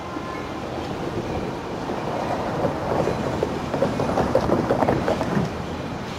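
Amtrak Surfliner train with its F59PHI diesel locomotive moving along the station track. A steady rumble builds, with a rapid clatter of wheels over rail joints and switches from about two to five seconds in.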